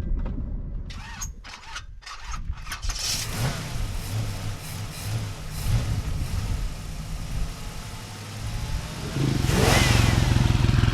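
Off-road vehicle engine running, with a few knocks about a second in; about nine seconds in the engine gets louder with an even, rapid pulse.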